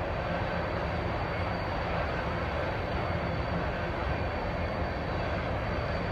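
Crude oil freight train rolling past, a steady rumble of its cars on the rails.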